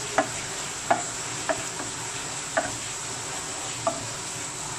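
Chicken pieces in masala sizzling in a pan while being stirred, the stirring utensil knocking against the pan about five times at uneven intervals.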